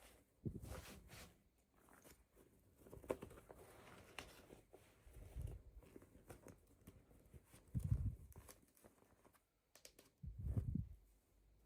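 Faint handling noises from toy packaging being opened: scattered small clicks, crinkles and tearing, with a few soft low thumps.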